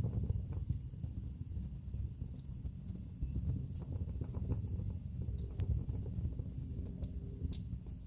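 Wood fire burning in a fireplace: a steady low rumble of flames with scattered crackles and small pops from the logs, and one sharper pop near the end.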